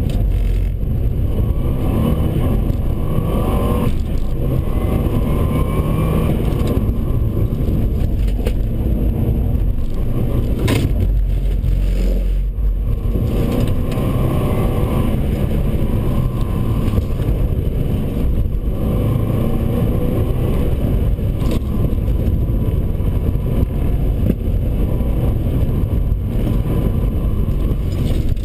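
Subaru Forester 2.5XT's turbocharged flat-four engine heard from inside the cabin under hard driving, revs rising and falling through acceleration and lifts, with tyre and road noise from the wet track. There is a brief drop in the sound about twelve seconds in.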